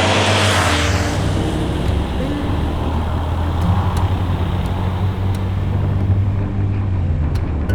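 Honda Cross Cub 110's small single-cylinder engine running steadily, its pitch shifting a little now and then, with a hiss that fades out about a second in.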